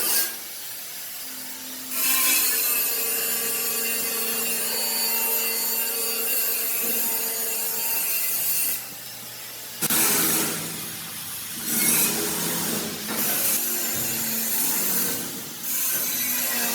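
A power tool working on steel, a grinding, sawing hiss with a steady motor pitch under it. It runs in stretches, easing off briefly about a third of the way in and again near the end.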